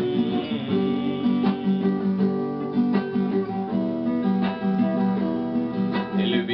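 Music led by a strummed acoustic guitar playing steady chords, with no singing.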